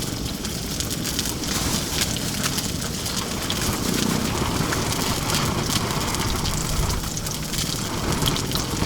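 Salmon frying in oil in a pan, a steady sizzle with crackling spits, over a low rumble of wind.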